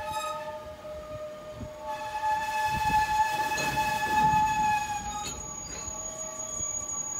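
A train passing, with a steady high-pitched tone carrying through it, loudest about two to five seconds in, over a low rumble.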